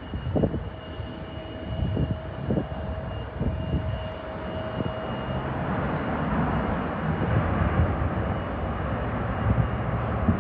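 Jet airliner engine noise building gradually, with a steady whine for the first few seconds.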